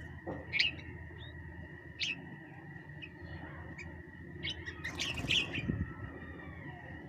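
Small birds chirping in short, scattered calls, with a denser burst of chirps and a brief rustle about five seconds in, over a steady high-pitched tone.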